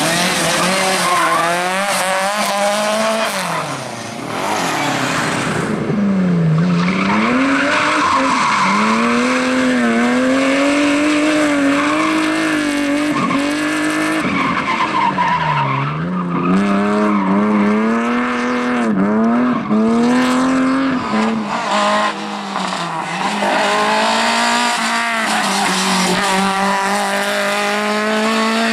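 Rally car engine at full throttle, its note climbing and dropping sharply several times as the driver lifts off and changes gear for corners, with tyres squealing and skidding.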